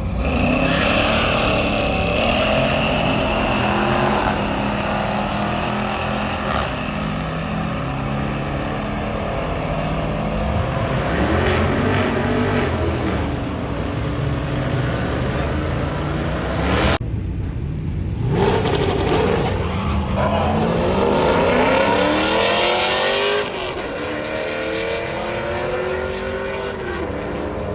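Car engines revving and accelerating, their pitch rising and falling again and again. The sound cuts out sharply for about a second around 17 seconds in.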